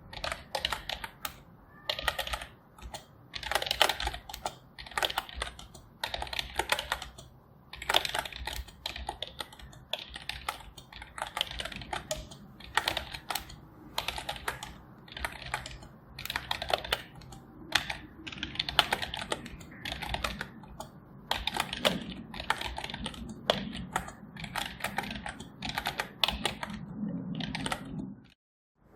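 Computer keyboard typing: quick runs of keystroke clicks in bursts, with short pauses between them, breaking off briefly near the end.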